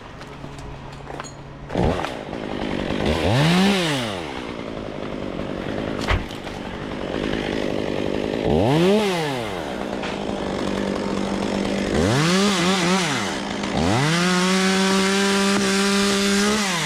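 Two-stroke chainsaw idling and blipped up to speed and back down several times, then held at full throttle for about three seconds near the end, as in a cut through a limb. A couple of sharp knocks come in the first half.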